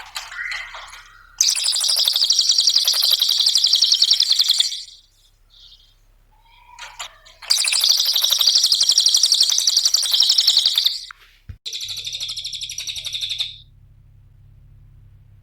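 Cililin songbird singing long, very rapid chattering trills in three bursts of a few seconds each, high-pitched. The last burst is shorter and thinner than the first two.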